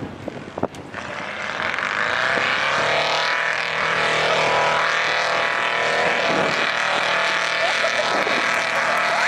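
Mud truck's engine revving hard, climbing in pitch from about a second in and then holding at high revs as the truck is driven through the mud pit.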